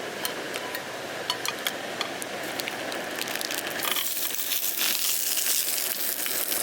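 Sausages frying in a pan: crinkling and small clicks at first, then a loud sizzle that starts about four seconds in.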